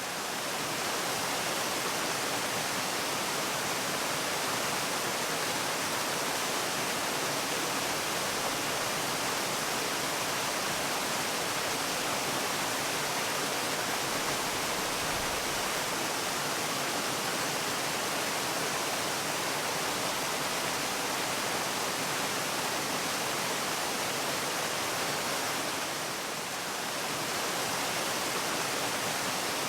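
Waterfall: the steady, even rush of falling water, with no breaks. The level dips briefly near the end.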